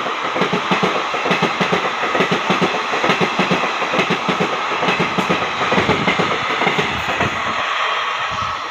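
Express train's coaches passing at speed, with a rapid, steady clickety-clack of wheels over the rail joints.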